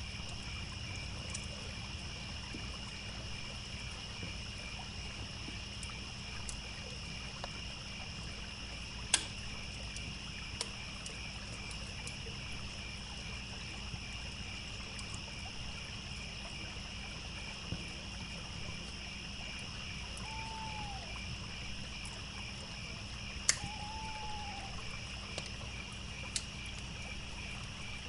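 Crickets chirping in a steady, pulsing chorus over a low rush of running water, with sharp pops of a crackling wood fire, the loudest about a third of the way in and again near the end. Two short arching calls sound about two thirds of the way through.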